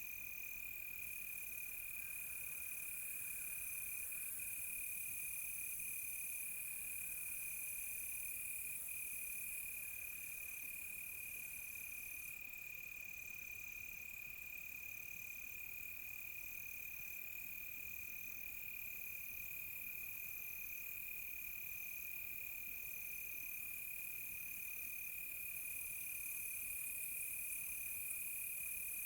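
Night chorus of crickets: one steady, unbroken high trill, with a higher chirp pulsing in even beats about once a second over a faint hiss of insects.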